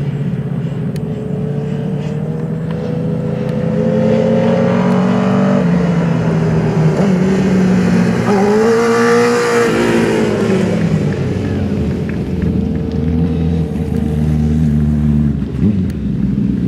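Racing motorcycle engines running on the track, one climbing in pitch over a few seconds. About halfway through, a bike passes close by, its pitch rising and then dropping.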